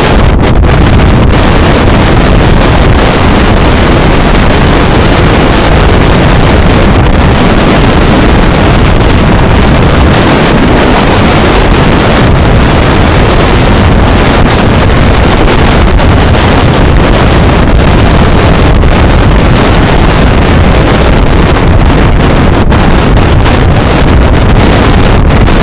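Strong wind buffeting the microphone, a loud, steady rush of noise with heavy low rumble.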